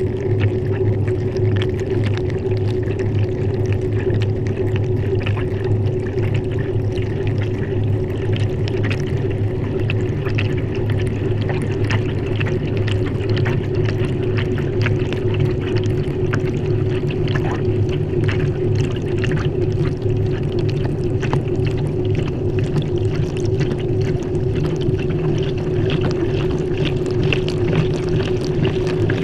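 Water splashing and pouring inside a Maytag washing machine's tub, heard from inside the tub, over the machine's steady mechanical hum.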